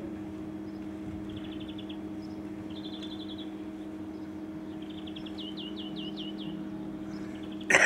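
Small songbird singing: short trills of rapid repeated high notes every second or two, then a run of quick downward-sliding notes, over a steady low hum. A sudden loud sound comes right at the end.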